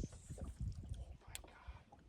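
Irregular low thumps and knocks on and around a small fishing boat, with one sharp click about a second and a half in.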